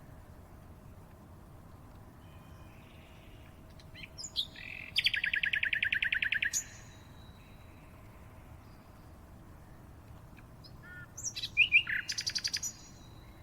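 A songbird singing two phrases, each a few short notes leading into a rapid, even trill. The first comes about four seconds in and the second near the end, over a faint steady background hiss.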